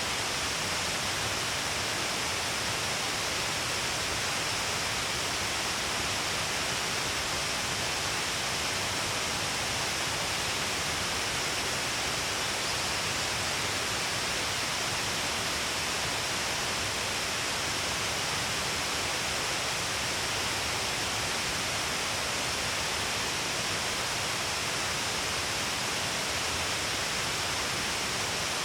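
Shiraito Falls, a long cliff of many waterfalls with a heavy flow, making a steady, unbroken rush of falling and splashing water.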